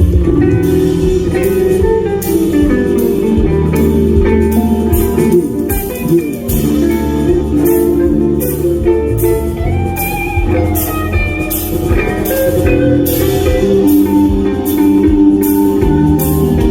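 Live band playing an instrumental break: guitar lines over bass and a drum kit keeping a steady beat.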